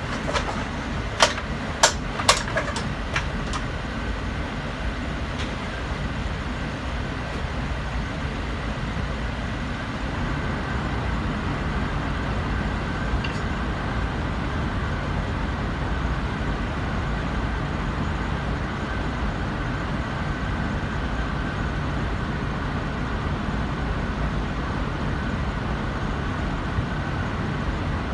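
Payne air conditioner running steadily on cool mode: an even hum with airflow noise. A few sharp clicks come within the first three seconds.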